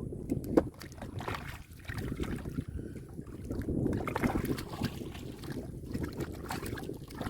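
Shallow muddy water sloshing and splashing irregularly as it is stirred by hands and feet groping for fish.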